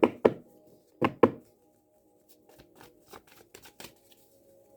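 Tarot cards being handled on a table: four sharp slaps of cards in two quick pairs in the first second and a half, then a run of faint light card clicks and rustles.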